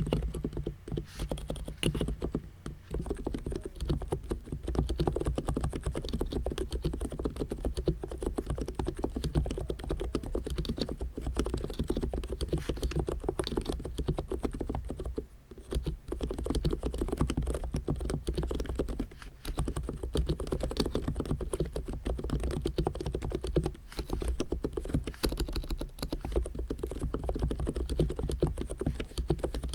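Abko K990 v3 capacitive (contactless-switch) keyboard typed on continuously, a fast run of keystrokes with a few short pauses, one about halfway through.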